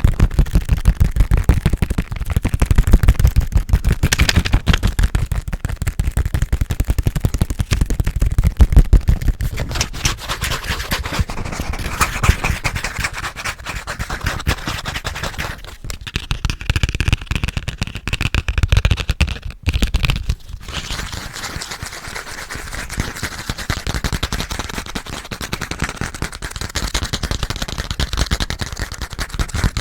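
Fast, aggressive fingernail tapping and scratching on a passport held close to a very sensitive microphone, many strokes a second. Just past the middle the strokes thin out briefly, then go on lighter and scratchier.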